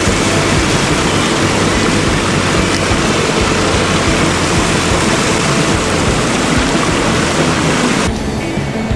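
Rushing mountain stream water, a loud steady rush that stops abruptly about eight seconds in.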